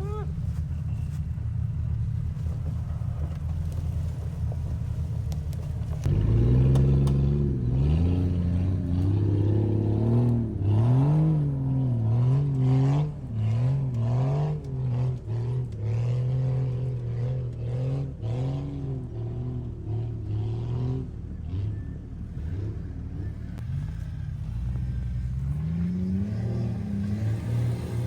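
Jeep engine running steadily at low revs. About six seconds in it opens up and revs hard, the revs rising and falling again and again as it works. It eases off, then revs up once more near the end.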